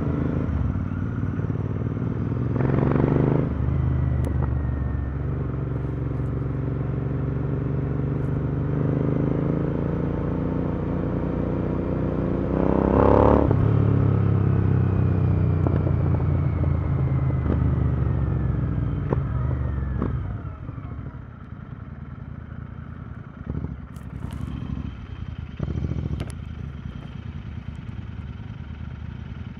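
Royal Enfield Continental GT 650's parallel-twin engine, breathing through Powerrage aftermarket exhausts, pulling through the gears on the road. It rises in pitch and peaks loudly twice, about 3 and 13 seconds in. After about 20 seconds the throttle closes and it runs quieter, with a few sharp ticks.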